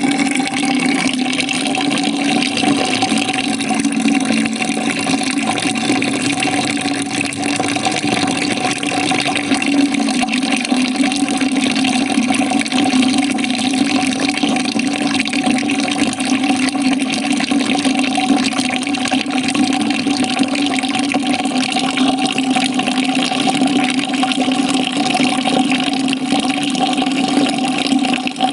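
Water pouring into a bucket as it fills: a steady, even rush with an unchanging low hum from the bucket.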